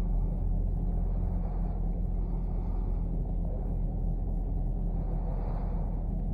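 Chevrolet Camaro LT1's 6.2-litre V8 rumbling at low, steady revs, heard from inside the cabin.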